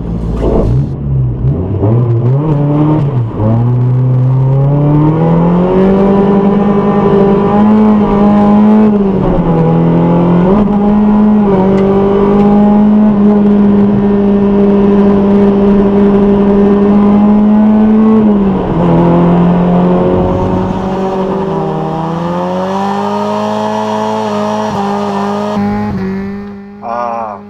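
Mazda Miata NA's four-cylinder engine heard from inside the cabin, revving up through the gears, holding high revs steadily for several seconds, then easing off and pulling again. Near the end it gives way to tyre squeal from a burnout.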